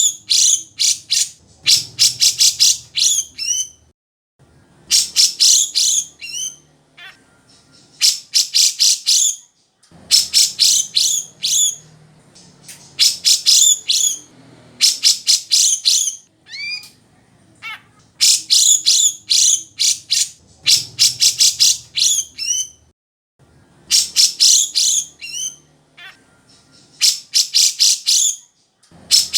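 Cucak jenggot (grey-cheeked bulbul) singing loudly in repeated bursts of rapid, high chattering notes. Each burst lasts a second or two, some end in quick sweeping whistles, and short pauses fall between them.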